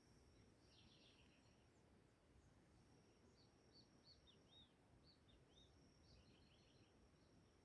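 Faint bird calls: scattered groups of short, high chirps about a second in, around the middle and again past two thirds of the way, over a thin steady high tone and soft background noise.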